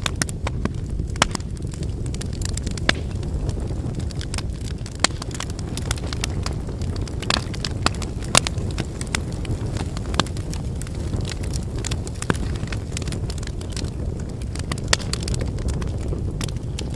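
Wood campfire burning: a steady low rumble of the flames with irregular sharp crackles and pops from the burning logs.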